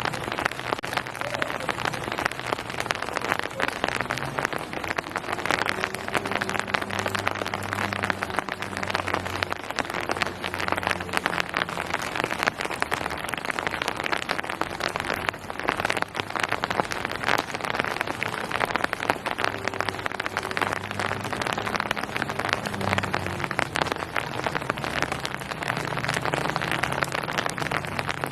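Steady rain falling on hard surfaces, a dense patter of many small drops, with a low hum underneath.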